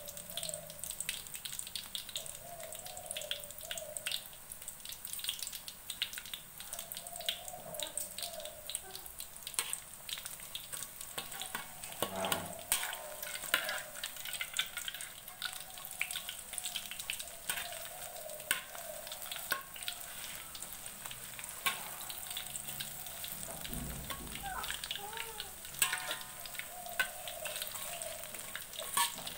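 Batter-coated enoki mushrooms deep-frying in hot oil in a wok: a steady crackling sizzle. A metal ladle or spatula clinks against the wok now and then as the clusters are turned.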